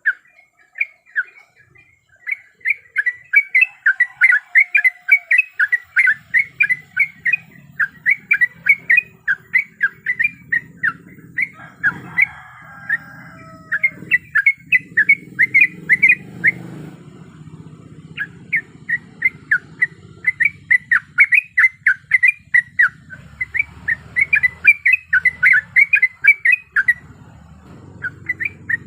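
Yellow-vented bulbul (trucuk) calling in quick runs of short, bubbling chirps, several a second, broken by brief pauses, over a faint low background hum.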